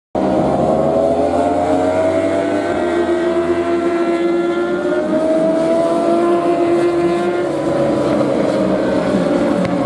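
Several racing motorcycle engines running at high revs together, their overlapping tones slowly rising and then falling in pitch.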